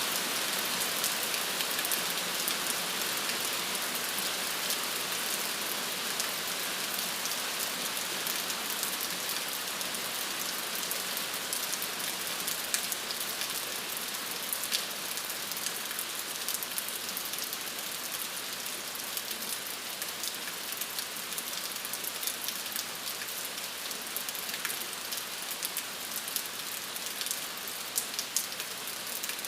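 Steady rain falling, a continuous hiss with many individual drops pattering on a surface.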